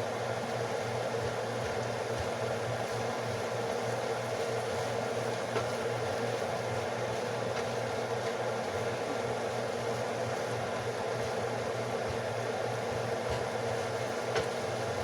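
Vegetables and black beans sautéing in olive oil in a pan, a steady sizzle over a low hum, with a couple of faint clicks.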